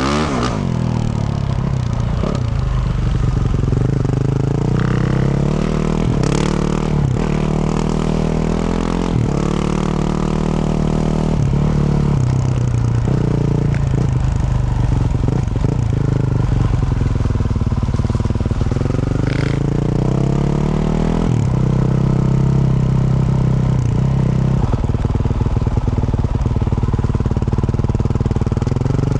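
2024 Yamaha YZ450F's single-cylinder four-stroke engine through a Yoshimura RS-12 exhaust, revving up and down and shifting while being ridden. There are a few sharp knocks from the bike over rough ground, around six and nineteen seconds in.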